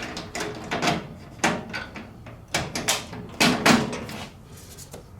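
Steel bolts, nut and handle knocking and clicking against a sheet-metal tool cart as a bolt is pushed through the handle mount and a nut is started by hand: a run of short, sharp metal knocks, a few louder ones in the second half.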